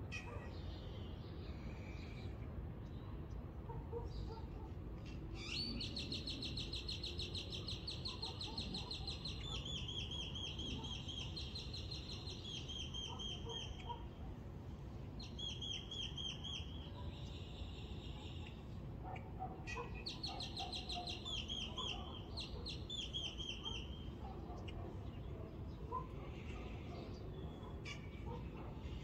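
Songbird singing fast trilled phrases of rapidly repeated high chirps, in several bouts with pauses between, over a steady low background rumble.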